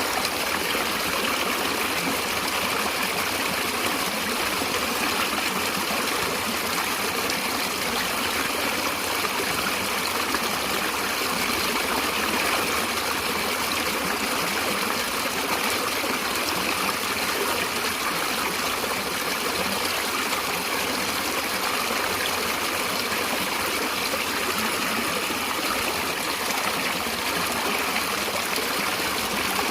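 A stream of running water, flowing and trickling steadily.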